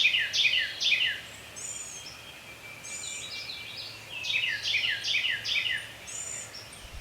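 Songbirds singing: quick runs of four or five short notes, each falling in pitch, twice, with higher, thinner notes between.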